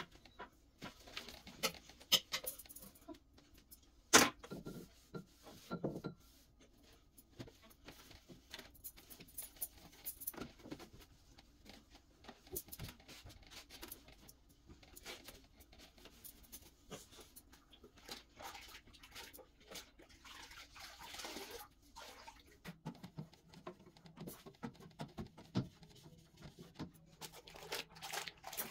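Scattered light clicks, knocks and rustles of household items being handled and set down, with one sharper knock about four seconds in. A faint low steady hum comes in about two-thirds of the way through.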